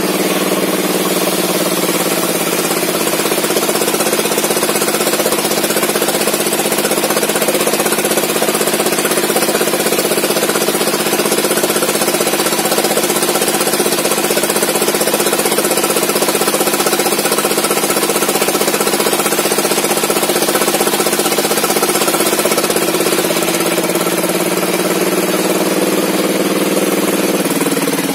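Chainsaw engine running steadily under load while sawing a log, its pitch shifting a little near the start and again near the end.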